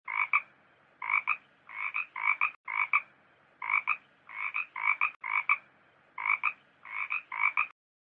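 An animal calling over and over in short calls of two or three quick pulses each, about one and a half calls a second, with two abrupt breaks in the rhythm where the clip appears to loop.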